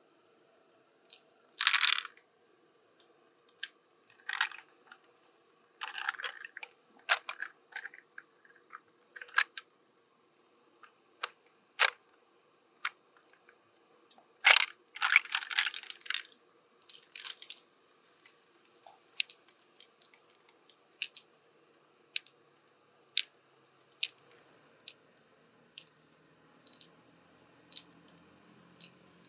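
Irregular sharp clicks and short crunching, scraping bursts from a large freshwater mussel shell being opened and its pearls handled. The loudest crunches come about two seconds in and again around the middle, then there are only scattered single clicks.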